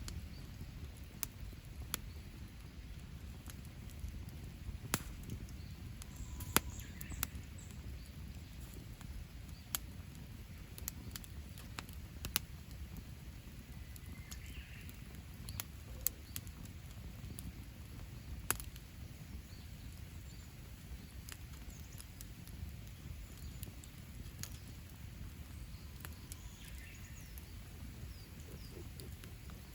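Campfire crackling, with irregular sharp pops and snaps over a low steady rumble. Faint bird calls come in a few times in the background.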